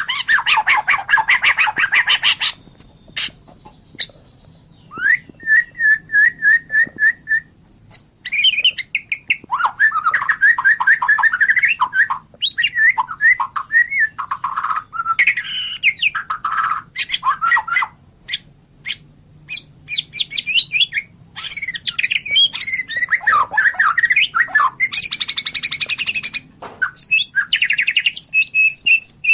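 White-rumped shama (murai batu) singing a loud, varied song of rapid chattering note series, clear whistles and sliding notes, delivered in phrases broken by short pauses.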